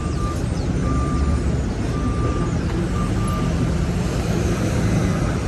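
A vehicle's reversing alarm beeping on one tone about once a second, stopping about three and a half seconds in, over the steady rumble of city street traffic.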